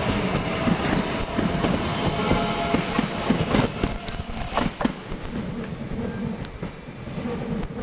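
Class 465/466 Networker electric multiple unit running past, its wheels knocking and clicking over the rail joints under a steady rumble, with a faint whine. It fades away after about four seconds.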